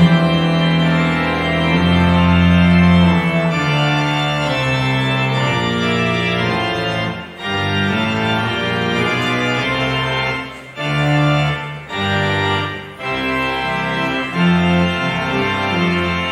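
Organ playing sustained chords that change every second or so, with three short breaks between phrases in the second half.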